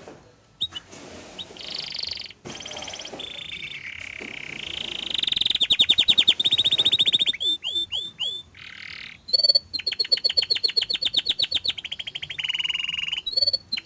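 Domestic canary singing a long, varied song of rapid trills and rolls, switching to a new tour every second or two, with fast-repeated notes.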